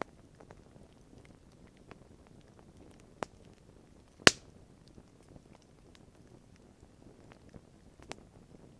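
Wood campfire crackling, with scattered sharp pops over a low steady rustle; the loudest pop comes about four seconds in, with smaller ones about a second before and near the end.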